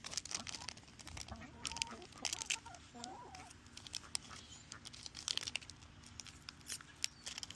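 Soft, wavering calls from pet poultry close by, heard mostly in the first half, over repeated short crinkles and crackles of foil booster-pack wrappers and cards being handled.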